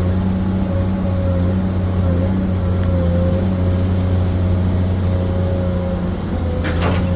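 Komatsu PC210 hydraulic excavator's diesel engine running steadily at working speed, with a few short knocks near the end.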